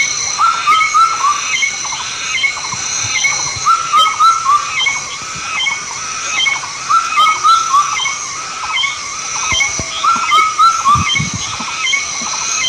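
An animal calling over and over in quick groups of three or four short notes, a group every two or three seconds, over a steady high-pitched drone.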